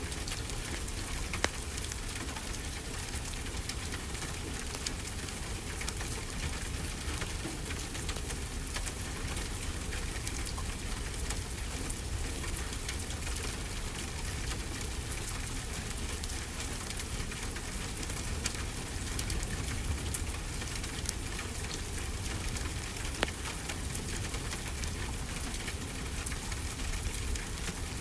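Steady rainfall mixed with a crackling wood fire: a constant hiss dotted with small crackles and a few sharper pops.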